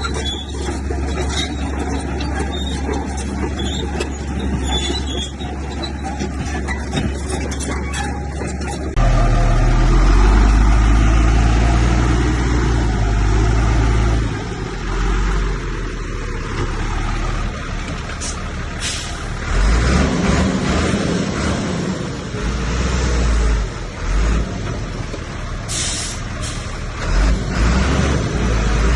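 Heavy diesel engines of a bulldozer and dump trucks running with a deep, steady rumble, the sound changing abruptly about nine seconds in. Two short hissing bursts come about two-thirds of the way through and near the end.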